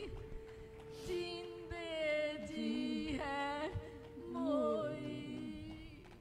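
Slow, mournful song: a voice sings drawn-out, gliding phrases over a steady held drone note.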